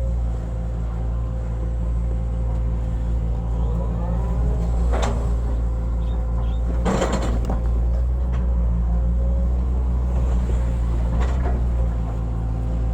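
Hitachi hydraulic excavator's diesel engine running steadily under a steady whine, with a brief rising whine and a few sharp knocks, the loudest about seven seconds in.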